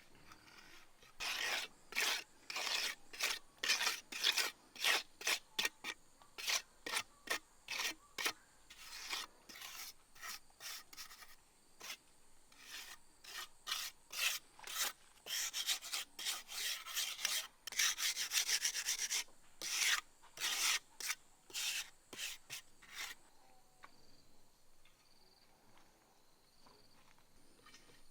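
Repeated rasping strokes, like scraping or filing, at one to three a second with a quick run of rapid strokes partway through. They stop a few seconds before the end.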